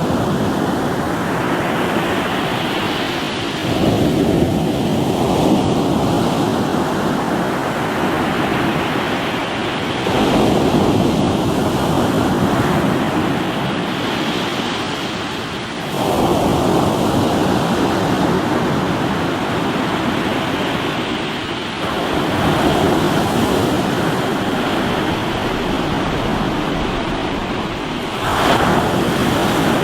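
Ocean waves breaking on a rocky shore: a fresh surge about every six seconds, each fading into a steady wash of surf.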